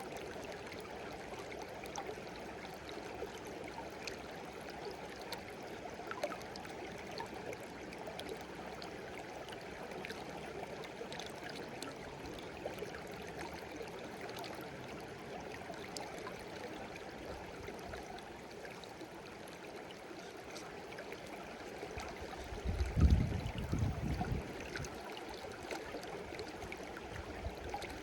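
Shallow stream babbling steadily, with small splashes and drips throughout. Near the end a brief low rumble lasts about two seconds.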